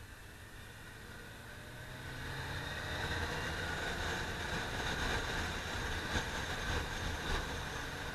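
Honda CBR600F3's inline-four engine pulling as the motorcycle accelerates, rising in pitch and getting louder over the first three seconds, then holding steady at speed.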